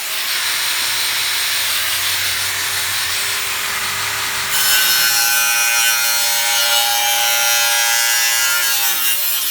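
A power tool cutting through steel: a loud, continuous harsh cutting noise. About halfway through, a steady ringing whine joins in and holds until near the end.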